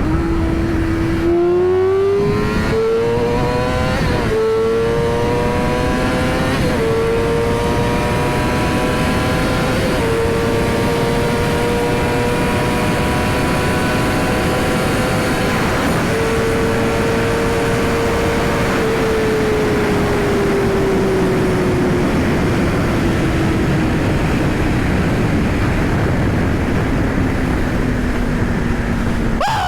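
Yamaha R6 inline-four engine pulling hard through about four quick upshifts in the first ten seconds, then holding high revs and slowly easing off over the last ten seconds. Heavy wind rush from riding at speed runs underneath.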